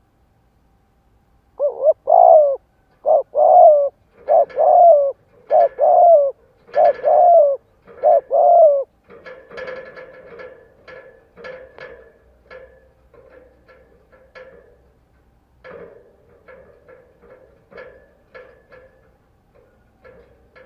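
Spotted dove cooing: six loud coos over about seven seconds, then a run of softer, quicker low notes.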